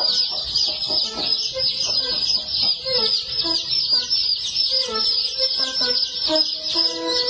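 Many small birds chirping at once in a dense, continuous chatter of rapid overlapping high chirps.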